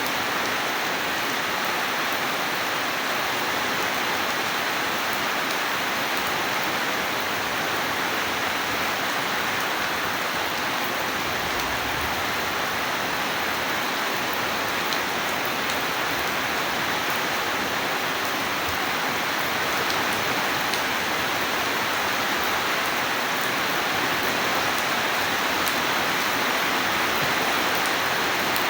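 Steady heavy rainfall, an even hiss of rain falling on surfaces with faint scattered drop ticks, holding the same level throughout.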